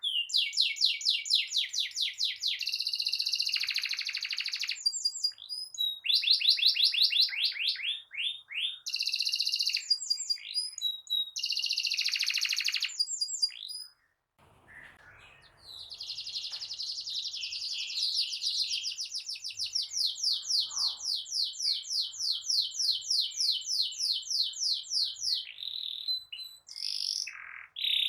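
Domestic canary singing long, high-pitched rolling trills of rapidly repeated notes, with a break of about two seconds around the middle.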